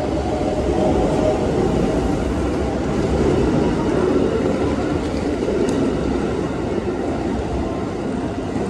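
JR West 681-series limited express electric train running past close by alongside a platform: a steady rumble of wheels on rail and running gear.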